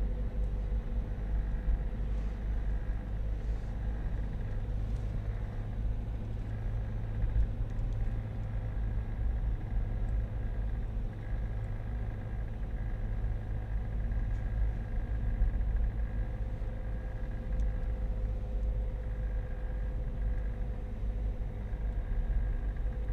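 Cabin of a Renault Mégane II with the car running: a steady low rumble, with a faint high tone that comes and goes every second or two and a few faint light ticks. This is the strange noise from the dashboard.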